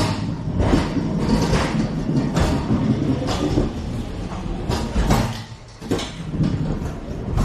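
Rolling, rattling clatter with many sharp knocks as cargo is unloaded from a truck trailer, dropping away briefly about five and a half seconds in.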